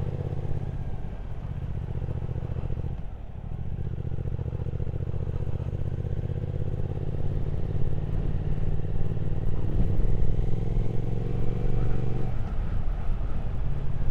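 Triumph Speed Twin 1200's parallel-twin engine running on the road. It dips briefly about three seconds in, then pulls harder with a rising pitch and level from about seven seconds, and eases off a little before the end.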